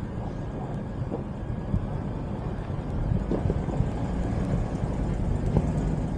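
Steady low rumble of a car driving, with a few faint ticks.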